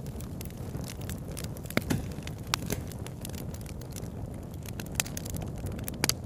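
Campfire crackling: irregular sharp pops and snaps of burning wood, a few louder ones about two seconds in and near the end, over a steady low rumble.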